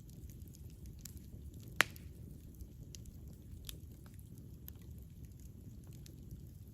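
Campfire burning: a low steady rumble with scattered small crackles, and one sharp, much louder pop about two seconds in.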